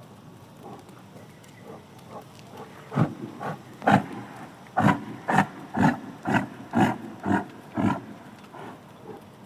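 Pig grunting: a run of short, rough grunts, faint at first, then louder and coming about twice a second.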